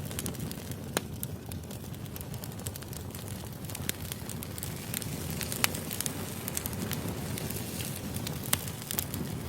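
Firewood burning: a steady low rush of flame with scattered crackles and sharp pops. The loudest pops come about a second in, just past the middle and near the end.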